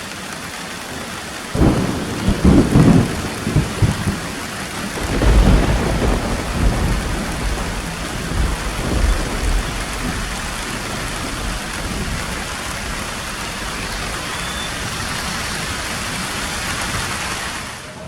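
Steady heavy rain with two rolls of thunder, the first about a second and a half in and the second about five seconds in, after which only the rain continues.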